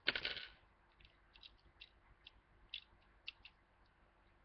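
Plastic Lego bricks being handled: a short rattling clatter at the start, then scattered light clicks of pieces being picked up and pressed together.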